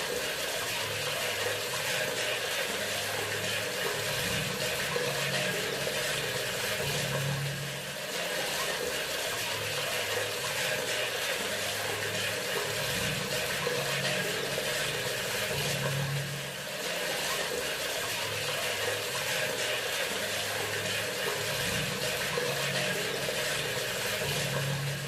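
Bathroom sink faucet running, a steady stream of tap water splashing into the basin, with a brief dip in level about every eight seconds.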